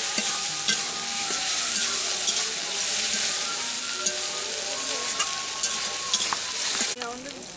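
Curry sizzling in hot oil in an aluminium karahi while a spatula stirs it, with irregular clicks and scrapes of the spatula against the pan. The sizzle drops away abruptly near the end.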